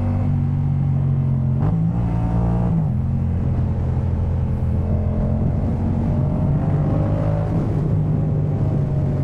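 Yamaha MT-07's 689 cc parallel-twin engine running under way through a Jeskap K4 full aftermarket exhaust, with a steady, deep note. Its pitch rises briefly just under two seconds in and drops back about a second later, then holds fairly even.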